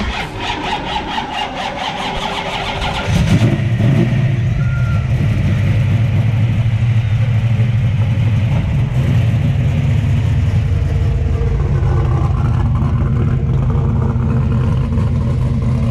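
A car engine starting: a few seconds of cranking, then it catches about three seconds in and settles into a steady idle.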